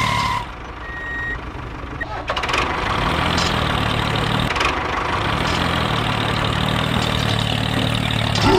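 A vehicle engine running steadily with a low hum, with a short high beep about a second in.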